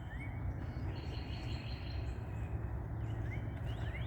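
Wild songbirds singing: a series of quick whistled notes that sweep up and down, repeated again and again, with a rapid high trill for a couple of seconds. A steady low rumble runs underneath.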